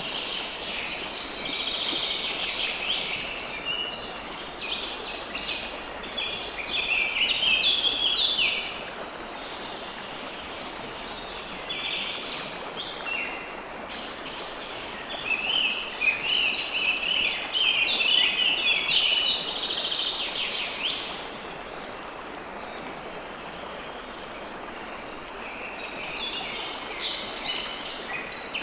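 River water flowing steadily under birds chirping. The birdsong comes in busy stretches of several seconds, with short lulls in between.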